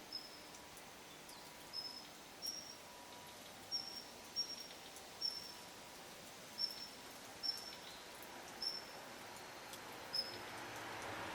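A small songbird giving a short, high, thin call note over and over, about once a second, against faint outdoor background noise.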